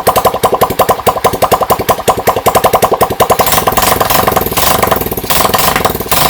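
Freshly overhauled Yamaha STX 125 (YD125) single-cylinder four-stroke motorcycle engine running, first with evenly spaced exhaust pulses at idle, then picking up into a faster, smoother run about three and a half seconds in as the throttle is opened.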